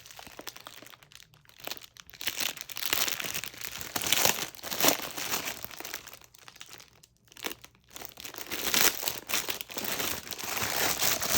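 Packaging crinkling and tearing in irregular bursts as a package of binders is unwrapped by hand, with a quieter pause about two-thirds of the way through.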